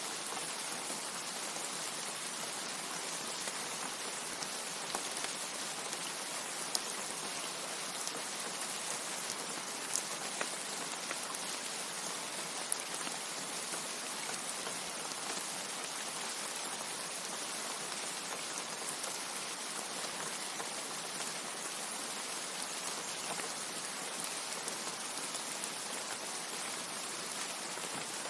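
Steady rainfall, an even hiss with a few sharper single drop strikes standing out now and then.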